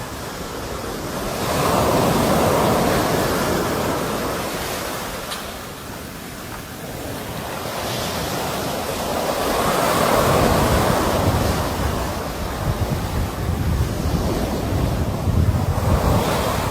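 Sea waves rolling in and washing on the shore, the surf swelling up and dying away twice, about eight seconds apart. Wind buffets the microphone in gusts in the last few seconds.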